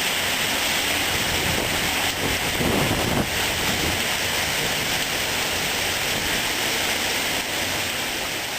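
Heavy tropical-storm rain pouring down steadily with wind, with a brief louder rush about three seconds in.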